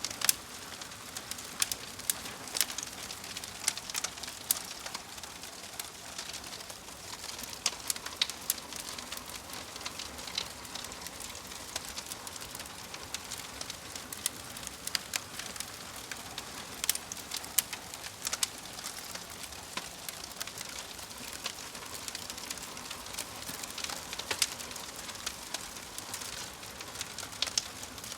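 Wood fire crackling: a steady hiss broken by many irregular sharp pops and snaps.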